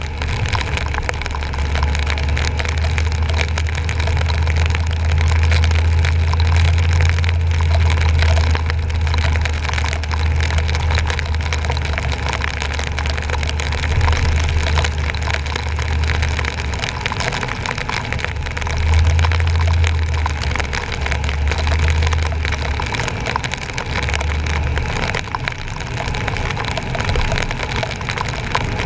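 Truck driving through rain-flooded streets, heard from a GoPro on its front bumper: a low engine and road rumble over a steady hiss of rain and water spray. The rumble holds steady for the first half, then drops away and returns in short stretches.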